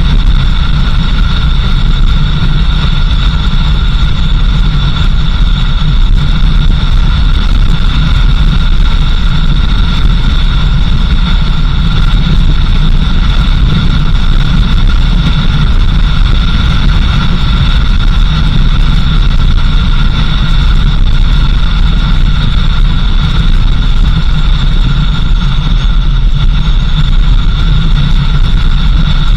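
Vehicle driving steadily: a constant low engine and road rumble with a steady high whine over it.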